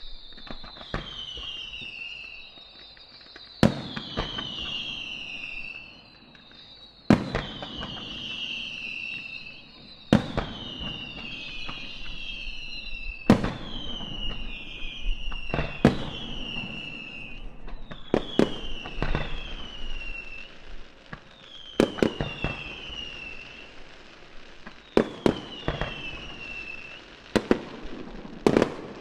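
Aerial fireworks bursting, with a sharp bang every two to three seconds. Each bang is followed by several overlapping shrill whistles that fall in pitch, with crackling between them.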